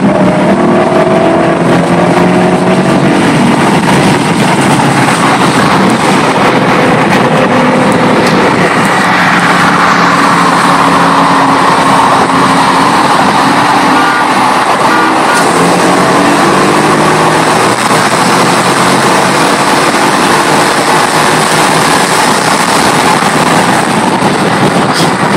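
Ford Mustang GT's 5.0 V8 pulling hard at full throttle at high speed, heard loud from inside the cabin, its note climbing slowly over heavy wind and road noise.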